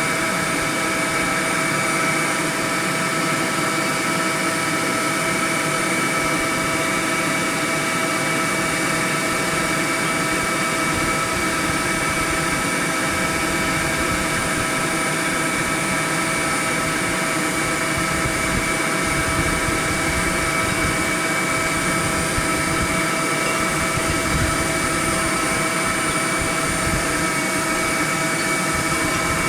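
Swarm of honeybees buzzing: a dense, steady hum of many bees, unbroken and constant in level.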